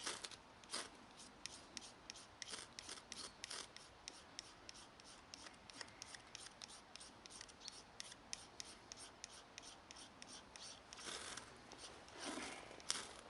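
Faint, repeated short scraping strokes, several a second, as tinder is scraped up to light a campfire. The strokes come thicker near the end.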